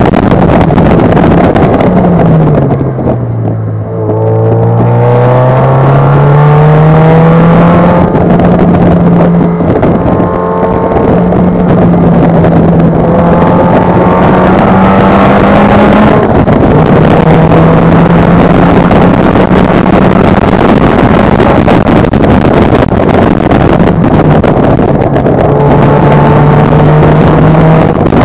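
MGF's mid-mounted Rover K-series four-cylinder engine under track driving, heard from the open cockpit over heavy wind noise. The engine note drops steeply about two seconds in, then climbs back and holds, with two shorter falls in revs later on.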